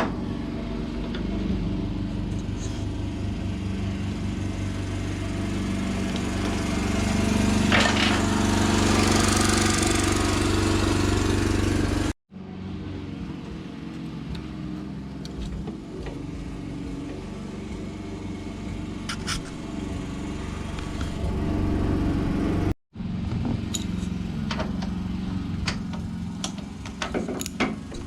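Steady low mechanical hum, with scattered clicks of hand tools working on a small engine and quick ratchet-wrench clicks near the end.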